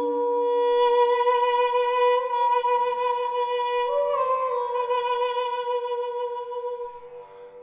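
Background music: a flute-like wind instrument holds one long note, steps briefly up in pitch about four seconds in, then fades away just before the end.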